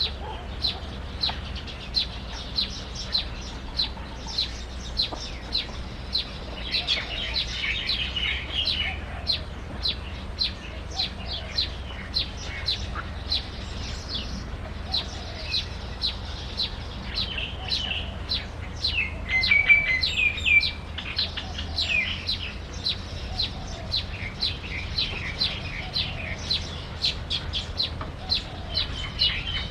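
A bird chirping: short, sharp, high chirps repeated about twice a second, with quicker twittering bouts about seven seconds in and again around twenty seconds, over a steady low hum.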